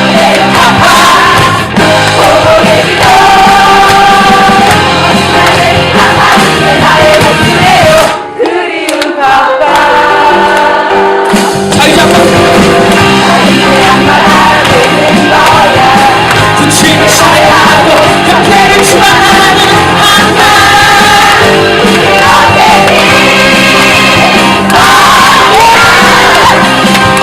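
Live musical-theatre song: voices singing over band accompaniment, with some shouted lines. About eight seconds in, the accompaniment drops out for a few seconds, leaving the voices nearly alone, then comes back in.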